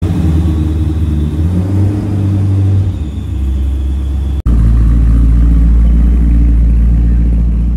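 Car engine running steadily with a low rumble, then after an abrupt cut about halfway a second engine clip, louder and lower, runs steadily.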